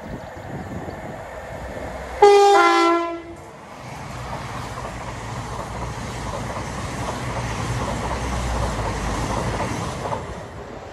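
A British train's two-tone horn sounds once, a higher note dropping to a lower one. The train then passes at speed with a steady rumble of wheels on the rails.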